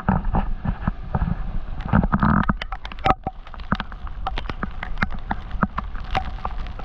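Heavy rain falling on the boat, with raindrops hitting close by as many sharp, irregular taps and a steady low rumble underneath.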